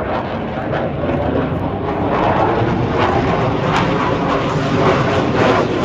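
Aircraft engine noise growing steadily louder as a plane flies past.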